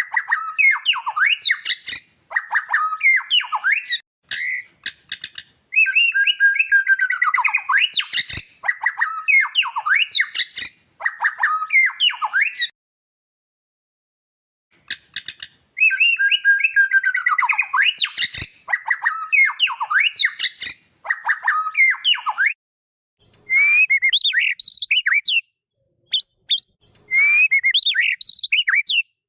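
White-rumped shama (murai batu) song: repeated bursts of sliding, whistled phrases, cut by a silent gap of about two seconds near the middle. In the last quarter the phrases change to short, sharp notes repeated in quick groups.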